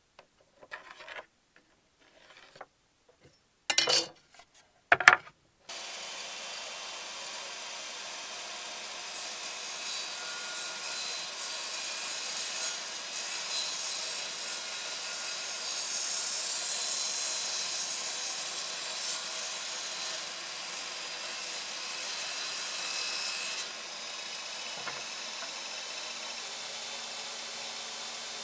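A few sharp wooden knocks, then from about six seconds in a steady rasping of wood being sawn or sanded, which eases a little near the end.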